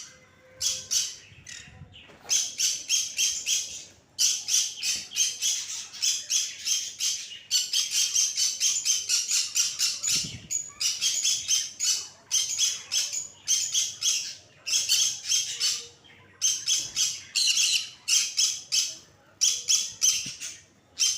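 Budgerigars chattering: rapid, harsh, high-pitched chirps and squawks in bouts of a second or two, broken by short pauses.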